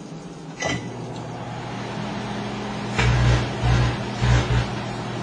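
Microwave oven clicking on and running with a steady low hum. From about three seconds in, a halved grape inside sparks into plasma, giving three loud buzzing, crackling bursts.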